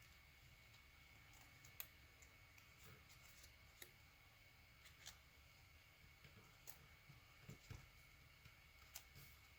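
Near silence, with faint scattered ticks and rustles of paper being folded and creased by hand.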